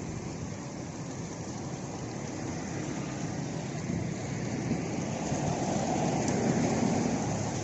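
Wind rumbling across the microphone, building to a gust about six to seven seconds in.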